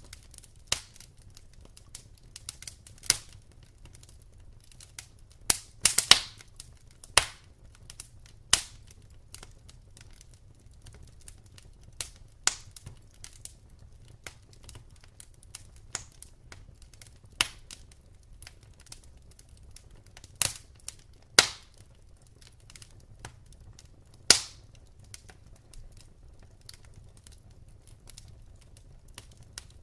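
Wood fire crackling in a fireplace: irregular sharp pops and snaps from the burning logs, several louder cracks among them, over a faint low rumble of the flames.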